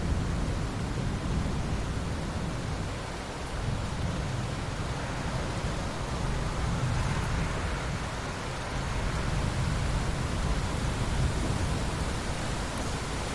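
Steady rain falling on open ocean water: an even hiss with a deep, rumbling low end that swells and eases gently.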